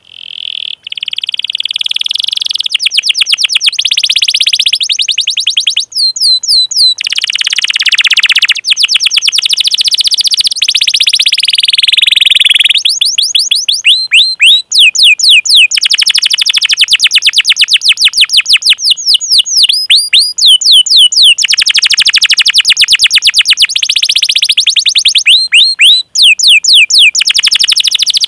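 Domestic canary singing a long, nearly unbroken song of fast rolling trills and repeated "cuit cuit" chirps. The song switches between rapid rolls and slower sweeping chirps, with only a few short breaks.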